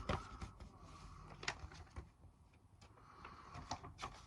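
Faint rustling and a handful of light, sharp clicks and taps from the glossy paper pages of a printed match programme being handled and turned.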